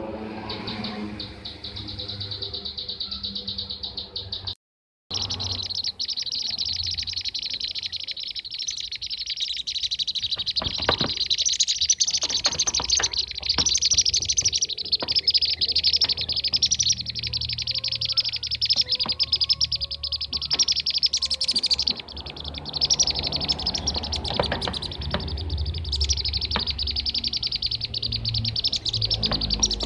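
Lure recording of kirik-kirik (bee-eater) calls: a dense, continuous stream of rapid high chirps from several birds. The sound drops out completely for about half a second near five seconds in.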